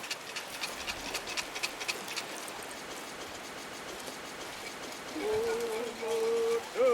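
A run of sharp clicks over a steady hiss in the first two seconds. About five seconds in, a singing voice comes in on a long held note, with a quick upward swoop near the end, as a chant begins.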